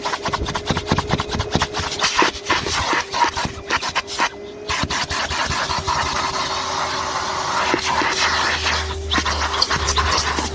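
Numatic Henry HVR200-22 vacuum cleaner running with a steady motor whine, while its nozzle scrapes and rubs over the car's interior, picking up grit in rapid clicks. The scraping drops out briefly about four seconds in.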